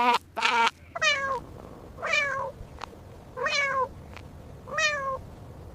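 A domestic cat meowing: four separate meows, each falling in pitch, spaced one to one and a half seconds apart, after two short calls at the very start.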